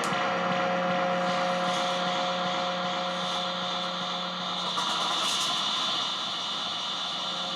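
Distorted electronic noise drone from contact-miked instruments run through an amp and effects pedals: a steady, dense wall of hiss with a low hum and a couple of held tones. A higher hissing layer grows louder about three seconds in.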